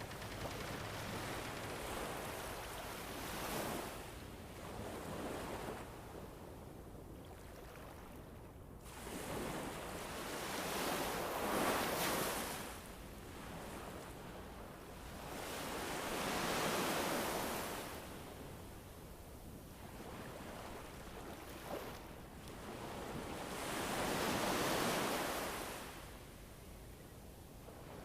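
Ambient background soundscape of rushing noise, like surf or wind, that swells and fades in long slow washes, about four in the stretch.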